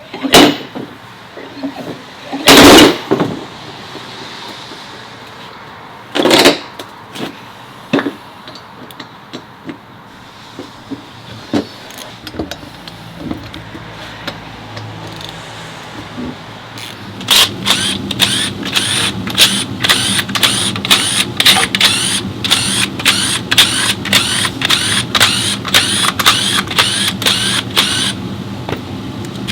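Workshop tools working a rusted-in CV joint out of an automatic transmission. A few heavy metal knocks come first. Then a steady machine hum begins, and after it a fast run of sharp metallic strikes, about three a second, for some ten seconds.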